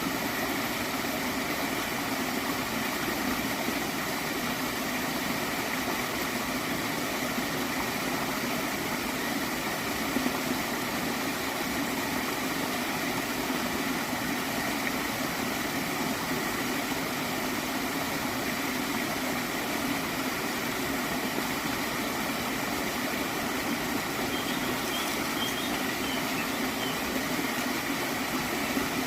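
Water in a small stream flowing and gurgling steadily, an even, unbroken rush of water.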